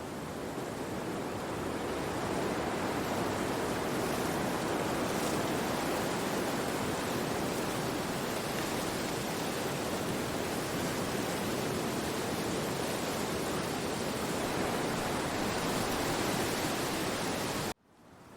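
Wind rushing steadily through forest trees, with no distinct bird calls. It cuts off abruptly near the end and starts to swell back.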